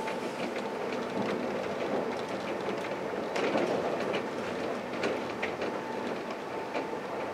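SNCF B 81500 (AGC) regional train running along the track: a steady rolling rumble with a faint steady whine, broken by irregular clicks and knocks of the wheels over the rails.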